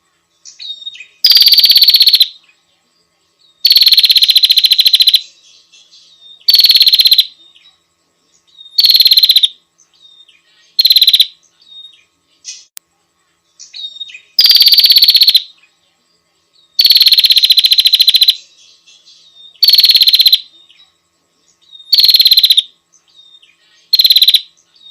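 Female prinia (prenjak) calling: loud, rapid buzzing trills, each half a second to a second and a half long, repeated about every two seconds, with faint short chirps between them. This is the call a female gives to summon a male.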